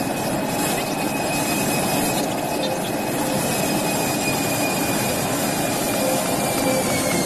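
Jet airliner engines running loudly with a steady rush and a high whine, the whine dropping slightly in pitch near the end.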